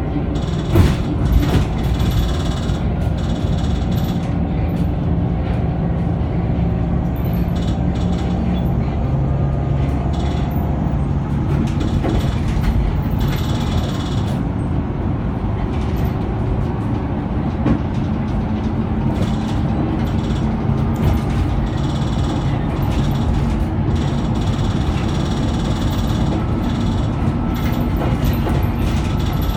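Scania K94UB three-axle bus's diesel engine running under way, its pitch rising and falling as it pulls, with rattles and knocks from the bus body throughout and a sharp clatter about a second in.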